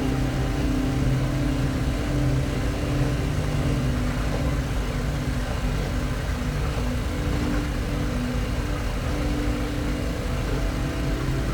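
Harley-Davidson Pan America's Revolution Max 1250 V-twin engine running at a steady cruising pace, with wind and road noise rushing past. The engine note eases off a little midway and pulls harder again near the end.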